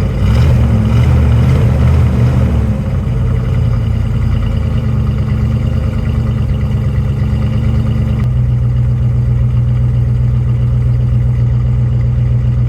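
Jeep Grand Cherokee ZJ's 5.2-litre V8 running steadily after a cold start at −24 °C. It is a little busier and louder for the first few seconds, then settles. About eight seconds in, the higher part of the sound drops away abruptly, leaving a steadier, duller low note.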